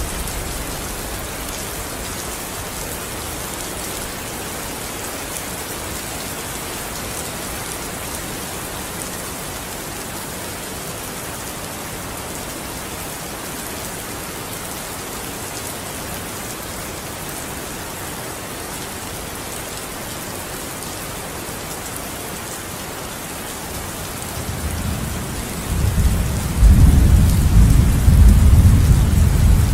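Steady rain falling, an even hiss. About three-quarters of the way through, a deep rumble of thunder builds and rolls loudly until the end.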